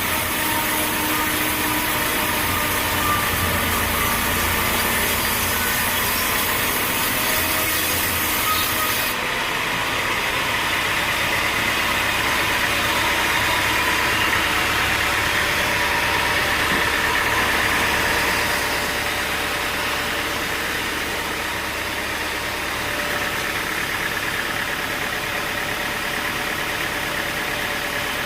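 A sawmill running: a steady engine-driven saw working through wood. The sound changes abruptly about nine seconds in.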